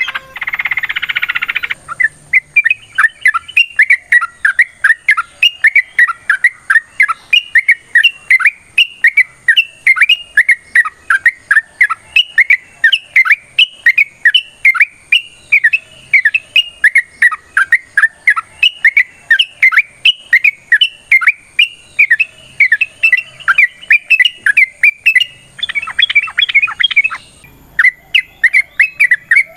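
Yellow-vented bulbul (trucuk) singing a long run of quick, repeated chirping notes, several a second. Near the end there is a short burst of chatter and a brief pause before the song starts again.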